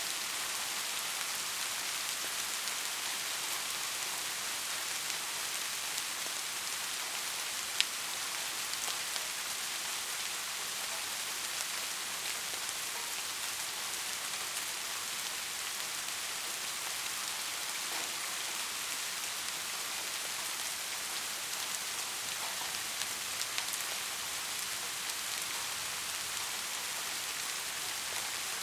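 Steady rain falling, an even hiss with scattered drop ticks and one sharper tick about eight seconds in.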